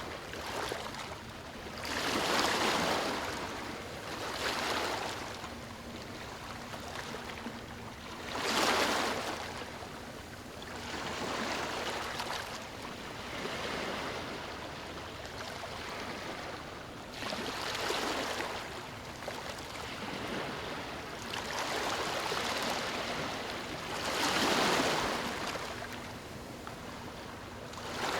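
Ocean waves breaking on a beach: surges of surf swelling and washing out every few seconds over a steady hiss of water.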